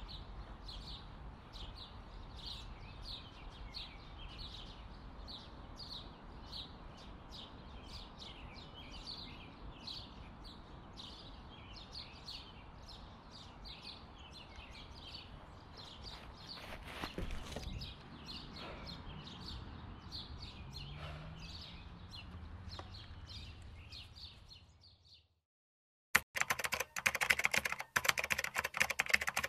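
A bird chirping over and over, about two short chirps a second, with a low outdoor rumble of wind underneath. Near the end this cuts to silence, then to a fast run of keyboard typing clicks.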